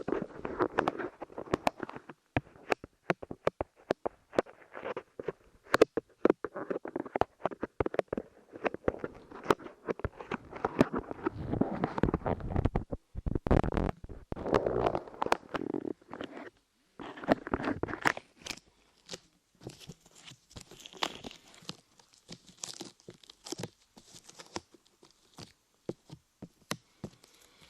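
Light clay being squished and pressed against the microphone, making dense sticky crackling with many sharp little clicks and pops. The crackling turns quieter and thinner in the last third.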